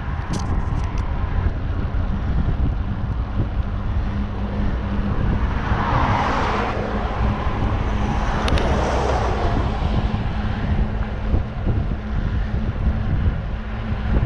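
Wind buffeting the microphone while cycling along a road, a steady low rumble with louder swells about six and nine seconds in.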